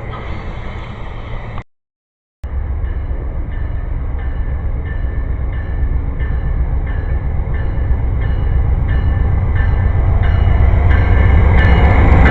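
Train passing on the line, a steady rumble with wheels clicking in a regular beat of about two to three a second, growing louder. The sound drops out abruptly for under a second about two seconds in, then comes back.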